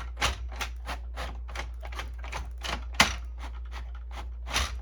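Canon Pixma printer's paper-feed mechanism cycling with the case open, making a rapid, regular clicking of about three clicks a second, a few of them louder. It is the feed drive running while the printer fails to feed paper.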